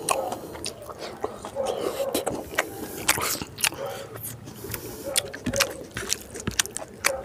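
Close-up sound of a person chewing mouthfuls of rice and pork curry, with many short, sharp wet clicks of the lips and mouth.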